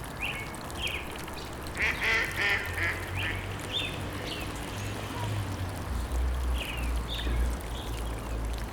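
Waterfowl calling in a series of short quacking calls, busiest about two seconds in and again near the end, over a low steady rumble.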